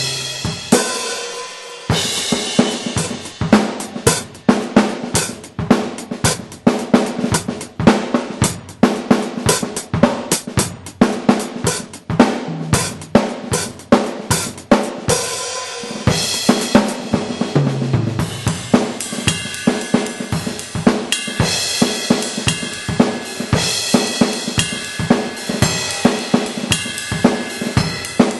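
Sampled acoustic drum kit played live through a 2Box electronic drum module: a steady groove of bass drum, snare and hi-hat with tom fills. Cymbals ring more heavily through the second half.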